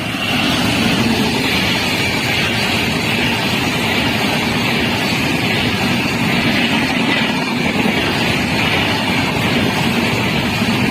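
Indian Railways train passing close at speed: a loud, steady roar of wheels on the rails, with a low rumble and a high rasping hiss.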